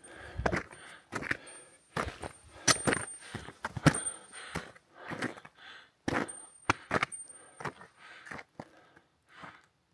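A hiker's footsteps crunching in snow, an irregular step a little more than once a second, with small metallic clinks among them; the steps thin out near the end.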